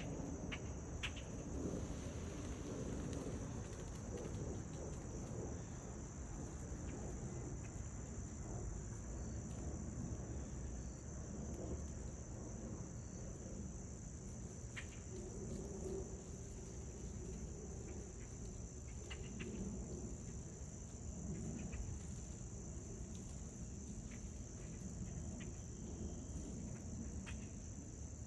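Crickets trilling in a steady, unbroken high-pitched drone, with faint short chirps here and there and a low rumble underneath.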